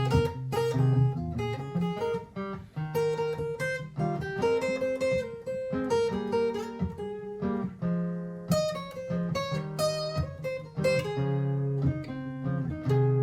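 Martin GPCPA4 acoustic guitar improvising many quick picked notes over a repeating looped backing of lower notes played back by a looper pedal.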